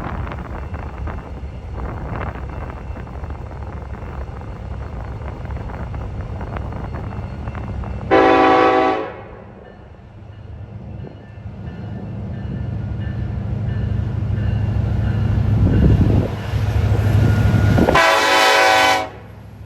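Diesel freight locomotive idling with a steady low rumble, sounding its horn twice, each blast about a second long and about ten seconds apart. Between the blasts the engine grows steadily louder.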